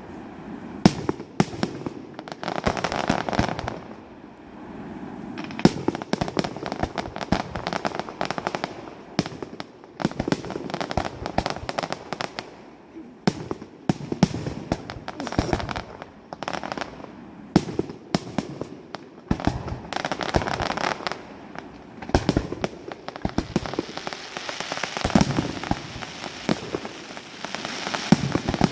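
Fireworks display: shells bursting in quick succession, sharp bangs mixed with crackling, easing off for a moment now and then before building again.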